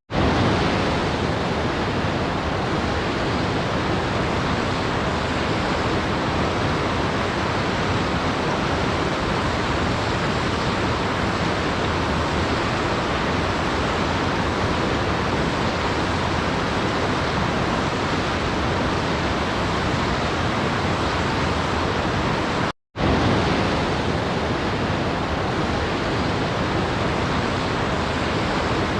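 Waterfall, a steady, even rush of falling water with no changes in level or character. It drops out to silence for a split second about 23 seconds in, then carries on.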